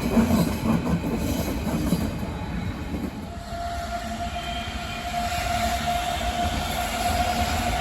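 A train running through the station: rumbling wheel noise with clatter, then a steady high whine that sets in about three seconds in and holds.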